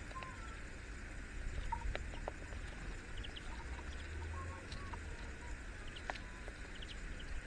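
Faint, scattered bird calls and short chirps with a few sharp clicks, over a steady background hiss.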